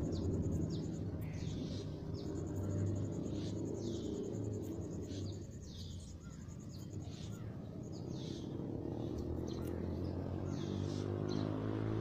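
Oriental magpie-robins calling: a string of short, downward-sliding whistles, about one or two a second, over a steady low rumble.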